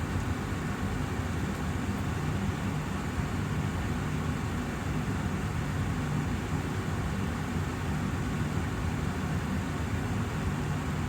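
Austin Air HealthMate air purifier running: a steady rush of air from its fan with a low hum underneath.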